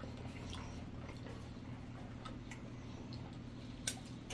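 Quiet eating: a few faint, scattered mouth clicks and smacks of chewing saucy ribs, over a low steady hum.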